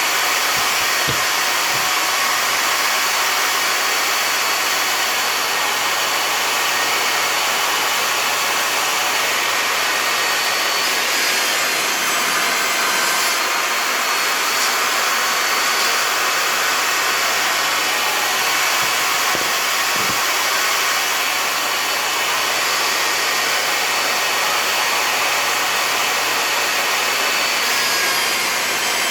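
Skil table saw running steadily at speed while wooden fence pickets are ripped into strips.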